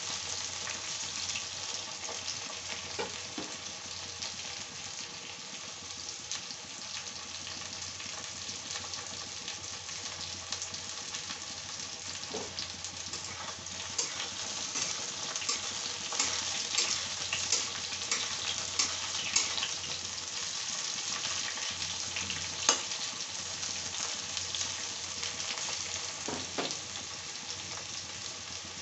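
Potato and pointed gourd (parwal) pieces sizzling steadily as they fry in oil in a kadhai, with constant crackling and a few sharper clicks as a metal spatula stirs them against the pan.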